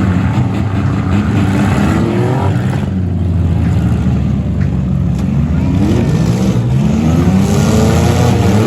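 Several demolition-derby cars' V6 engines revving at once, their pitches rising and falling and overlapping.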